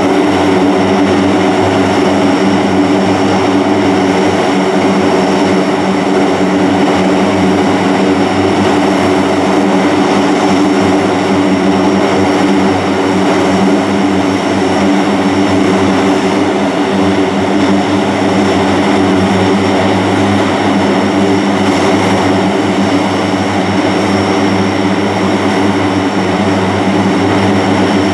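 AC-130J Ghostrider's four turboprop engines running steadily: a loud, even propeller drone with a constant high turbine whine above it.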